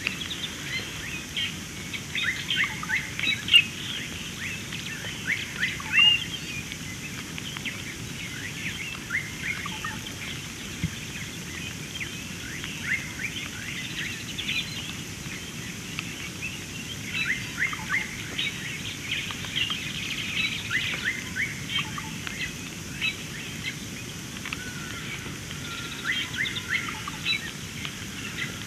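Many small birds calling together in a continuous chorus of short, quick downward chirps, coming in clusters, over a faint steady background hiss.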